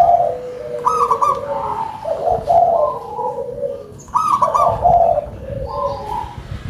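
Zebra doves (local perkutut) cooing, with overlapping phrases and a rolling phrase recurring about every three seconds.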